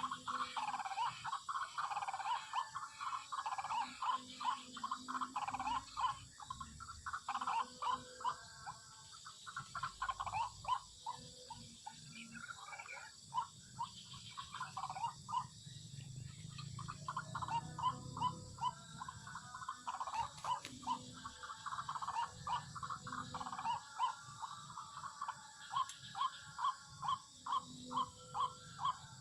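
White-breasted waterhen calling: a long run of rapidly repeated notes that thins out in the middle and settles near the end into a steady beat of about two notes a second.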